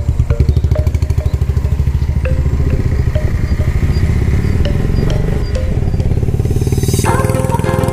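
Hero Xpulse 200's single-cylinder engine running at low speed, with a steady, even beat of firing pulses. Faint background music plays over it and swells up near the end.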